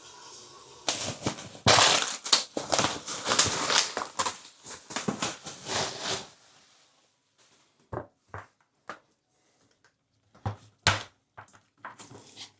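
Packaging crinkling and rustling for several seconds as a new toilet seat and its parts are unwrapped, followed by a few scattered clicks and knocks.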